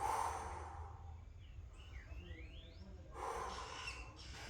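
A man breathing hard in recovery after a set of squats: a strong exhale at the start and another about three seconds in. A faint rising chirp about two seconds in, over a steady low hum.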